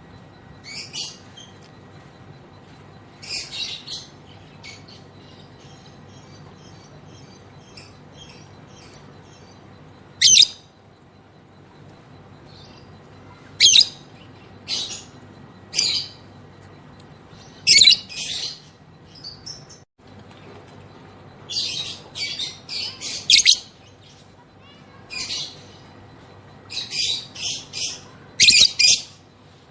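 Female lovebird giving shrill, high chattering calls in short bursts with pauses between, some bursts coming in quick clusters of several.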